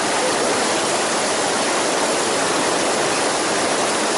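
Loud, steady rush of fast-moving water, an even roar with no breaks.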